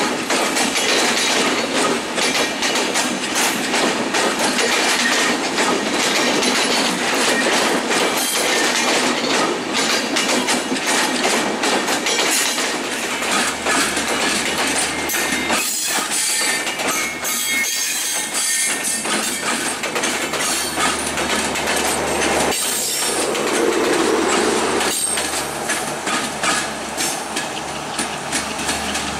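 LHB passenger coaches of an express train rolling past at speed, the wheels clattering over the rail joints in a steady stream of clicks.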